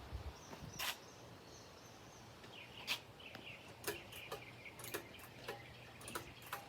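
Ceiling fan running on its low setting: a faint, steady motor hum with scattered light ticks.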